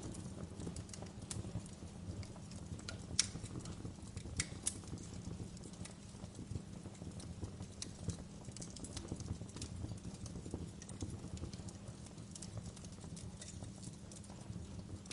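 Fire crackling: irregular sharp pops and ticks over a steady low rumble of burning flames, with the loudest pop about three seconds in.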